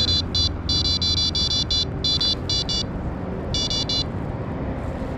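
Electronic carp bite alarms on a rod pod giving high-pitched beeps in quick, irregular runs as the fishing lines are tightened and pulled over the sensors; the beeping stops about four seconds in. A low steady rumble runs underneath.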